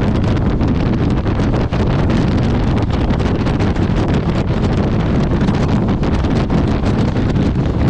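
Loud, steady wind buffeting the microphone of a motorcycle moving at road speed, a constant rushing roar with no single events in it.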